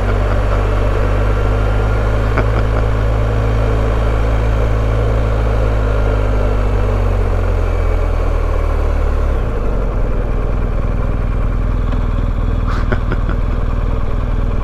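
BMW R1250GS boxer-twin motorcycle engine running under way, its note sinking slowly at first, then changing about two-thirds of the way through.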